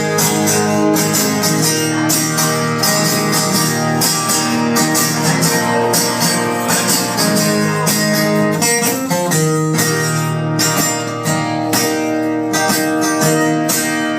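Guitar strumming chords in a steady rhythm through an instrumental break of a song, with no singing.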